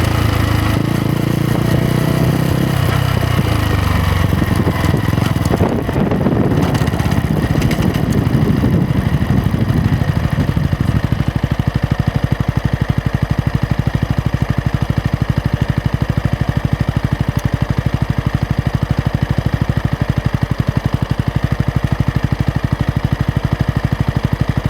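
Yamaha MT-125's single-cylinder four-stroke engine dropping in revs as the bike slows, then settling into a steady, evenly pulsing idle about eleven seconds in.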